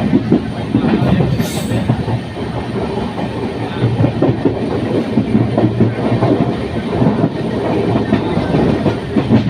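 Train rolling through a railway station, its wheels clattering steadily over rail joints, with a brief high squeal about one and a half seconds in.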